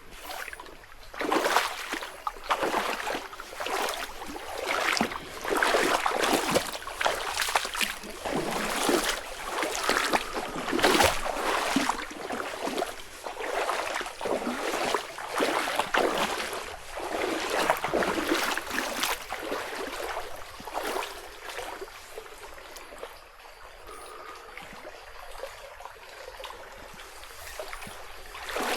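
Footsteps crunching and rustling along a forest path, a step about every half second to second, fading to a quieter stretch after about twenty seconds.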